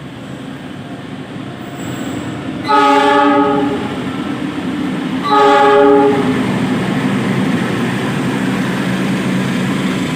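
Train horn sounding twice, two blasts of about a second each, roughly two seconds apart, over the steady rumble of a passing train.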